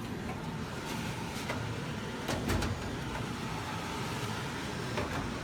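Engine running steadily with a low rumble while it is checked for a miss, with a few sharp clicks over it, the loudest about two and a half seconds in.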